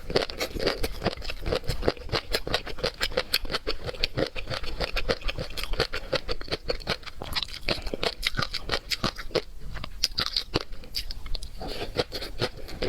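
A person chewing and biting seafood, a dense, continuous run of quick crunching clicks.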